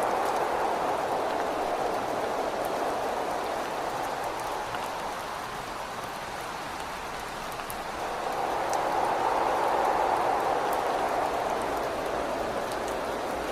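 Rain falling on a window with scattered drop ticks, under wind blowing in gusts. The wind eases off midway and swells again about eight seconds in.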